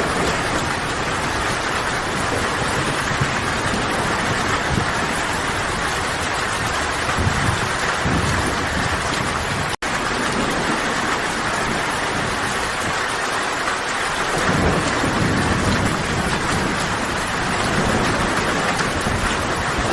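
Steady rain falling in a forest, a dense even hiss. Low rumbles of thunder swell up twice, and the sound cuts out for an instant about halfway through.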